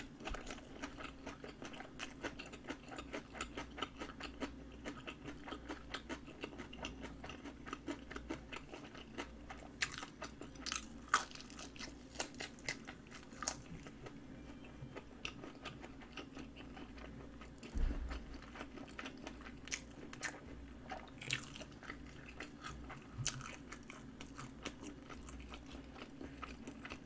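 Close-miked chewing of a mouthful of napa cabbage kimchi and seaweed-wrapped rice: many small, quick crunches and wet clicks, with a few sharper crunches. A faint steady hum runs underneath.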